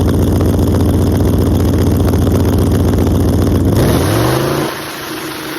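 Single-turbo Ford Mustang GT's V8 running hard under acceleration, loud with rapid even exhaust pulses. A little under four seconds in the sound changes and the engine note climbs in pitch, then drops in level.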